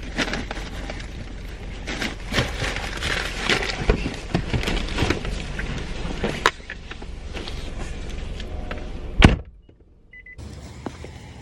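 Rustling, knocks and clicks of someone getting out of a car, with a sharp click about six and a half seconds in and a heavy car door thump shut a little after nine seconds, then a steady low background.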